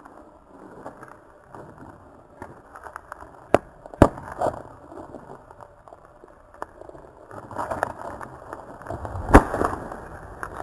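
Campfire crackling, with two sharp pops about four seconds in and a louder one near the end.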